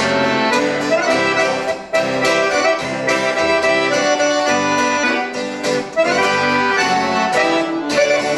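An instrumental break in a song, played on a melody instrument that sounds like an accordion, moving through a run of quick notes over a steady accompaniment, between sung verses.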